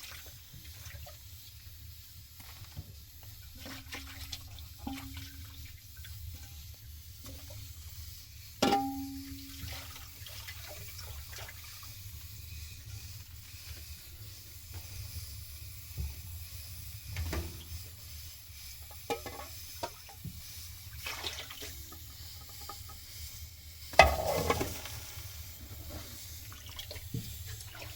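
Water splashing and running, with scattered small knocks of kitchenware. Two louder clanks come about 9 and 24 seconds in, and the first rings briefly.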